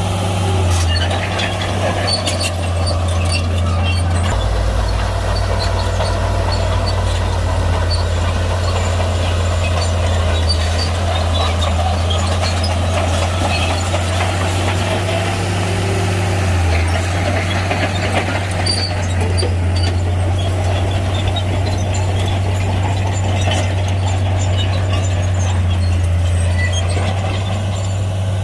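Heavy Shantui bulldozer's diesel engine running steadily under load while pushing stone, with light scattered clanks and squeaks. The engine note deepens about four seconds in.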